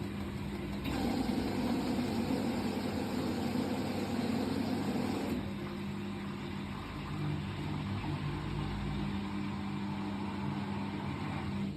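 Washing machine running with a steady motor hum. It grows louder and fuller about a second in, then eases back a little after about five seconds. The machine is one that shakes badly.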